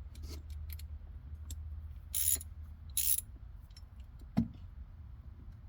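Small hand ratchet clicking in two short bursts, about two and three seconds in, as fasteners are worked loose, with a single knock about four seconds in and scattered light tool clicks.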